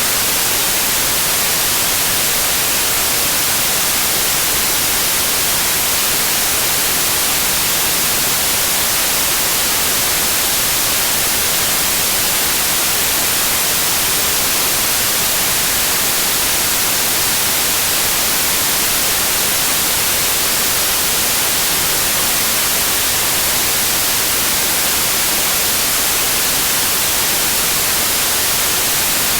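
Steady white noise: an even, bright hiss across all pitches, loudest in the highs, unchanging throughout.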